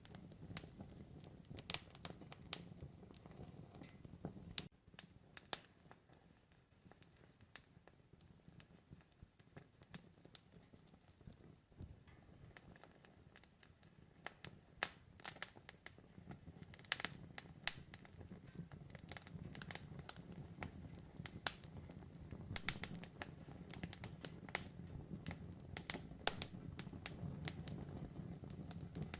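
Wood campfire crackling: irregular sharp pops and snaps over a low, steady rumble of burning. The pops are sparser in the middle of the stretch and come thicker toward the end.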